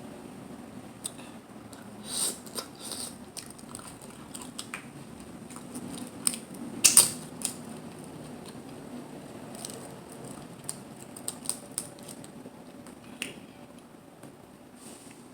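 Close-miked eating of mussels and clams: scattered sharp clicks and cracks of shells being handled and pried, with chewing. The loudest cluster comes about seven seconds in.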